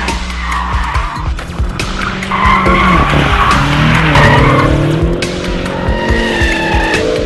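BMW M5 F10's twin-turbo V8 engine revving, with tyres squealing, over background music.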